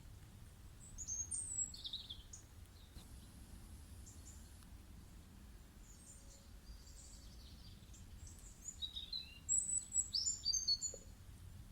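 Birds chirping in a nature ambience: a short flurry of high chirps about a second in and a busier run of quick chirps near the end, over a faint steady low hum.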